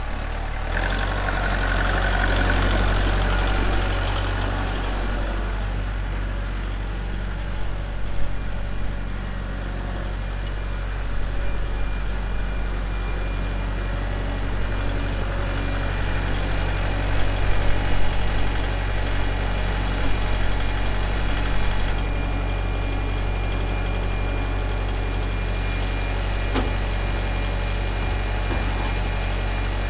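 Kubota L4701 tractor's four-cylinder diesel engine idling steadily, with a few brief knocks and clanks over it.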